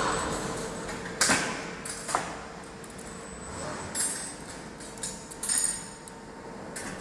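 A series of sharp mechanical clicks and clacks, about six spread irregularly, over a faint steady hum.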